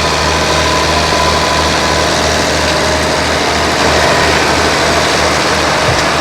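Farm tractor engine running steadily with a low, even hum.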